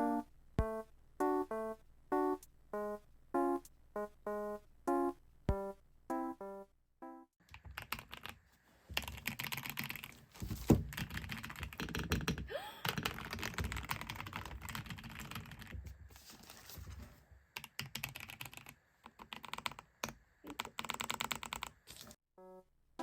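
Background music of short plucked notes for the first several seconds. After that comes a long stretch of close, dense clicking, tapping and rustling, the sound of things being handled, with a keyboard-like clatter in places.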